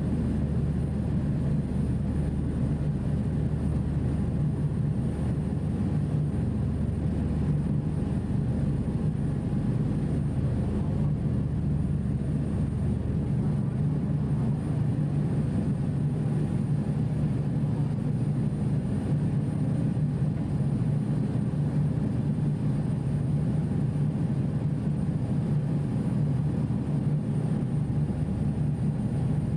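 Passenger ferry's engines droning steadily, heard from on board: a constant low hum with no change in pitch or level.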